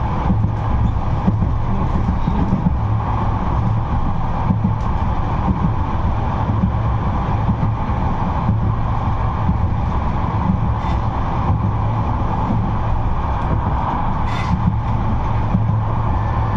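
A 71-628-02 tram running steadily along the track, heard from inside the car: a constant low rumble of wheels on rails. There is one short click near the end.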